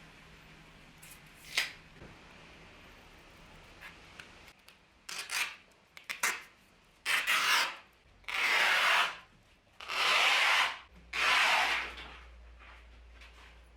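Hand tool rasping along wood in long back-and-forth strokes, like filing or hand sanding: one short scrape early, then about six strokes of roughly a second each, the longest and loudest in the second half.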